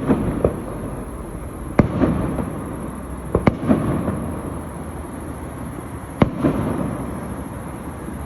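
Aerial fireworks exploding: four sharp bangs a couple of seconds apart, each followed by a rumbling, crackling tail that fades.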